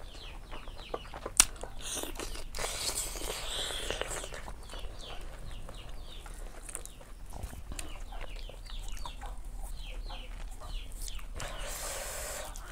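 Close-miked chewing and eating sounds, with many short chirps from birds in the background and a single sharp click about a second and a half in.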